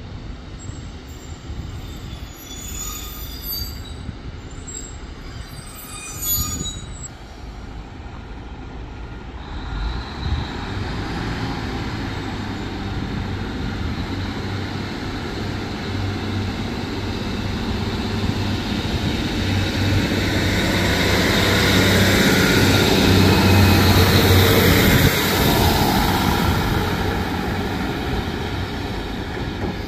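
Northern diesel multiple unit train approaching along the platform. Its diesel engine and wheels on the rails build up from about a third of the way in and are loudest near the end, with a high wheel squeal at the peak.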